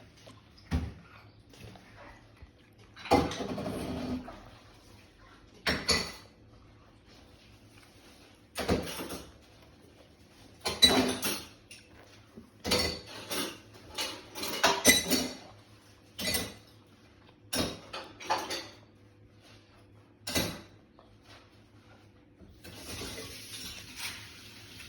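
Scattered clinks and clatters of kitchenware and utensils being handled, one or two every second or two with quiet gaps, and a longer rattle about three seconds in. Near the end a steady hiss comes in.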